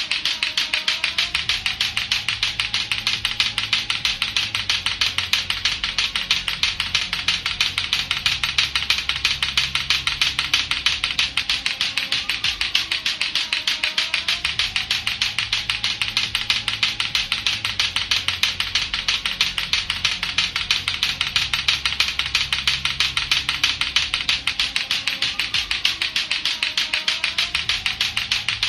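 Lato-lato clackers, two hard balls on a string knocking together, in rapid, nonstop clacking. Under it a low backing loop repeats about every thirteen seconds.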